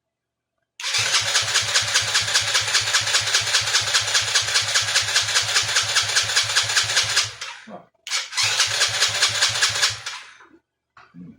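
A 110cc Chinese kids' ATV engine is being cranked on its electric starter in two rhythmic bursts, a long one and then a shorter one about a second later. Each burst stops abruptly without the engine catching. The engine won't start because of a carburetor or fuel-delivery problem.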